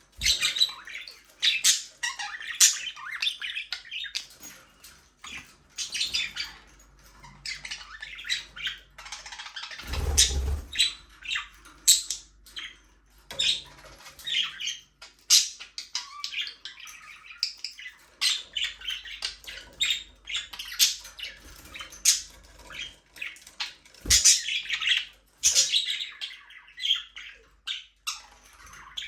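A group of budgerigars chirping and chattering continuously, many short high calls overlapping. A brief low thump about ten seconds in, and a sharp click about 24 seconds in.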